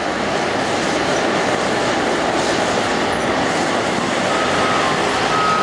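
Heavy oilfield equipment running with a steady mechanical din. A brief thin squeal comes in about four seconds in and lasts about a second and a half.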